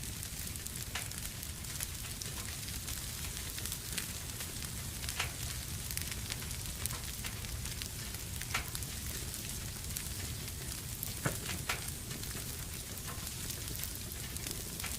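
Wood fire burning in a fireplace: a steady hiss with scattered sharp crackles and pops every second or few.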